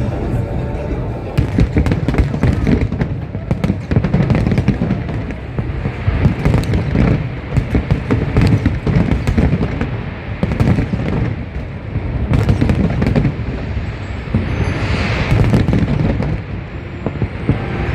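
Fireworks display with aerial shells bursting in rapid, overlapping booms and crackles, coming in repeated surges.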